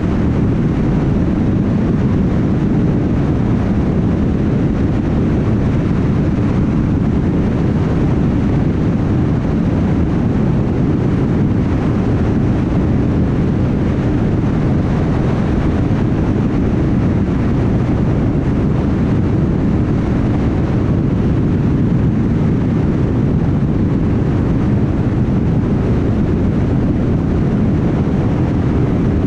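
Steady road noise of a car cruising on a highway: an even, low tyre roar and engine drone, with no change in level.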